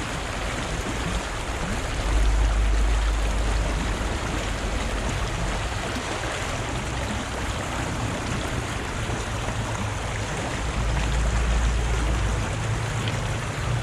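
Fast-flowing river rushing steadily, with a deep low rumble that swells twice.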